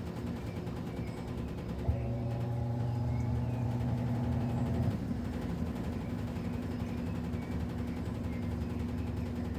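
Midea Wave-Agitator top-load washing machine running mid-cycle: a steady motor hum, with the motor drawing a louder, stronger hum for about three seconds from roughly two seconds in before dropping back.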